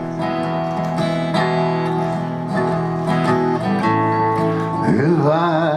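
Acoustic guitar strumming chords at a steady pace in an instrumental break between sung verses of a slow folk song.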